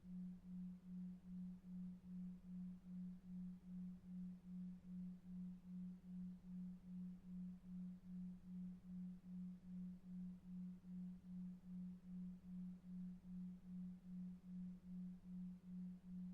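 A low pure tone pulsing evenly about two and a half times a second over faint brown noise: a 2.5 Hz delta-wave pulsed tone for sleep.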